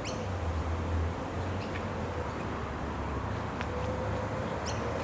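Outdoor street ambience: a steady low traffic rumble with a few short, high chirps scattered through.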